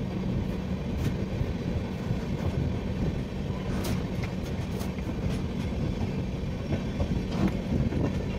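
Passenger train heard from inside the coach: a steady rumble with a low, constant hum, broken by scattered sharp clicks, a few in quick succession near the middle.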